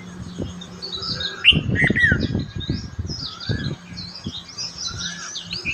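Many small birds chirping and twittering together, with short quick chirps and a few falling whistles. From about one and a half to nearly four seconds in, loud low rumbles and knocks sound underneath the birds.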